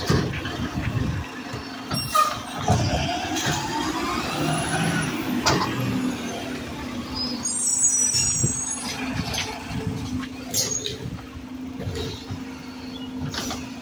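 Garbage truck running, its engine humming steadily, with a rising whine a few seconds in and a short air-brake hiss about halfway through.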